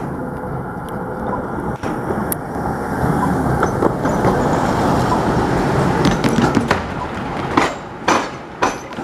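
Rail vehicle passing over the tram square, the diamond where tram and railway tracks cross. A steady rolling noise builds, then a run of sharp clacks about half a second apart as the wheels strike the crossing's rail gaps.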